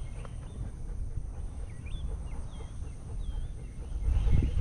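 Outdoor country ambience: a bird gives a few short, quick chirps in the middle, over a steady high insect drone and low rumble. About four seconds in comes a louder crunching scuff on the gravel path.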